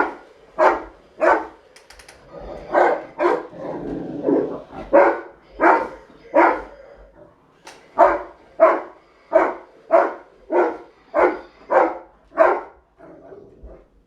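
A Rottweiler barking excitedly in a fast, even series, about one and a half barks a second, at a remote-controlled toy monster truck, with a short break around four seconds in and softer barks near the end.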